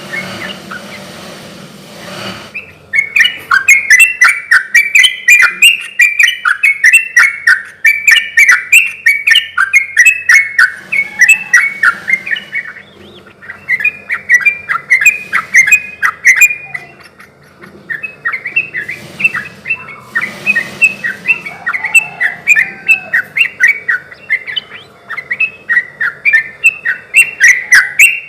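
Yellow-vented bulbul (trucukan) singing in its full, lively song: runs of quick bubbling notes in repeated phrases, with two short pauses. A steady noise fills the first couple of seconds before the song starts.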